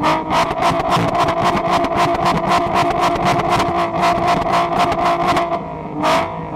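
VW Golf IV R32's 3.2-litre VR6 held flat out against the rev limiter: a steady high engine note chopped by the limiter about six or seven times a second, each cut with a sharp crack from the exhaust as it is pushed to the point of flames and a glowing exhaust. Near the end the revs drop briefly and climb straight back to the limiter.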